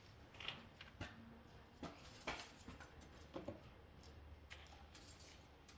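Faint handling of an engine oil dipstick: a few short, quiet clicks and scrapes scattered over a near-silent background.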